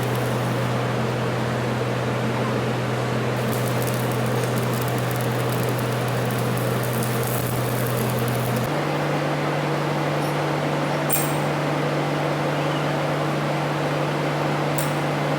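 A machine running steadily: an even noise with a low hum that steps up a little in pitch about nine seconds in, with a couple of faint high ticks later on.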